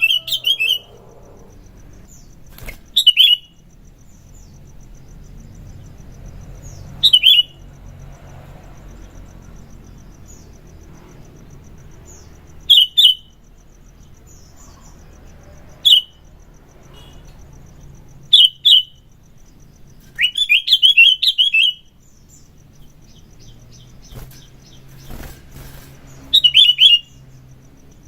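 Sooty-headed bulbul (kutilang) singing in short, loud chirpy phrases every few seconds, about eight in all, with a longer run of rapid notes about twenty seconds in.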